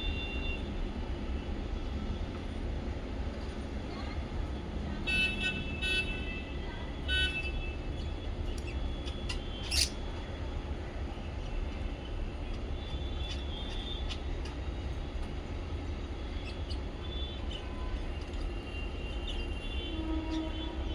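Small pet parrots chirping: short runs of chirps about five to seven seconds in, a single sharp shrill call near ten seconds, and scattered softer chirps later on, over a steady low rumble.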